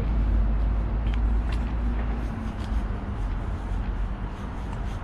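A motor vehicle's engine rumbling close by, with a steady low hum that drops away after about two and a half seconds. The quieter traffic noise that remains carries a few faint ticks.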